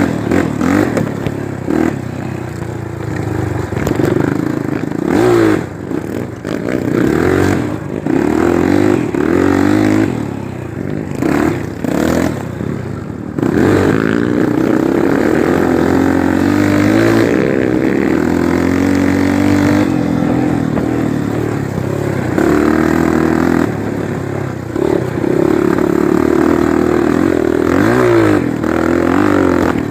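Honda single-cylinder four-stroke trail motorcycle engine riding off-road, its note rising and falling over and over as the throttle is opened and closed. Some clattering and scraping is mixed in during the first half.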